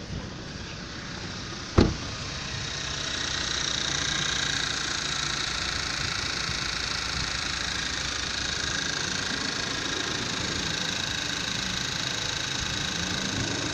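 Volkswagen engine on test running steadily, with a single sharp bang just under two seconds in. After the bang the running grows a little louder and then holds even.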